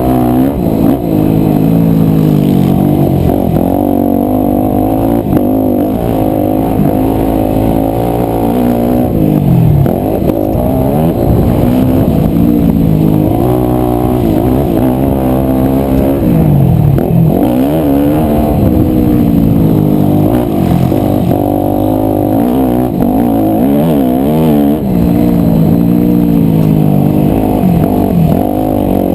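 A 250 cc four-stroke single-cylinder motocross bike engine under hard riding. The pitch climbs and drops again and again as the throttle is opened and shut.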